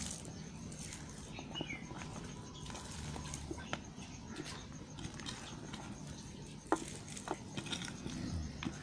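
Scattered light clicks and taps, a few a second at irregular intervals, from bars of soap being handled at close range, with one sharper click about two-thirds of the way through.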